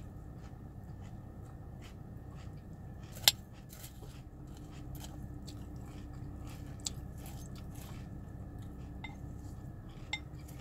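Crunchy Cocoa Pebbles cereal being chewed with milk, with a metal spoon clinking against the bowl; the loudest is a sharp clink about three seconds in, with two smaller ones later.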